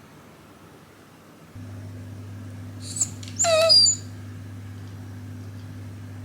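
Shiba Inu giving one short whine about halfway through, the loudest sound here. A steady low hum starts about a second and a half in.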